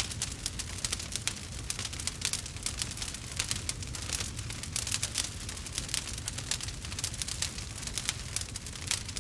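Wood fire crackling in a fireplace: a dense, irregular run of small sharp snaps and pops over a steady low rumble of flame.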